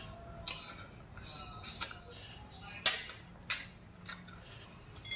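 Close-up eating sounds of a person chewing stewed pork hock, with about five sharp wet smacks and clicks spread over a few seconds.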